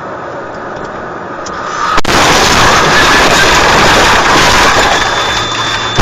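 Road and vehicle noise from a car crash recording, then a sudden sharp knock about two seconds in, after which a loud, rough rushing noise takes over.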